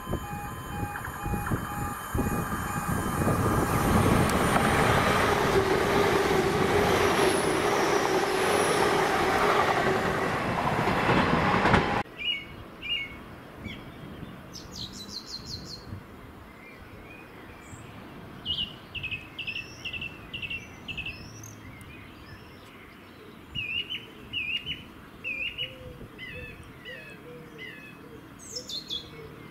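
An LNER Class 800 Azuma train runs through a station at speed, loudest from about four to twelve seconds in, then cuts off abruptly. After that, birds chirp and whistle in short, repeated phrases.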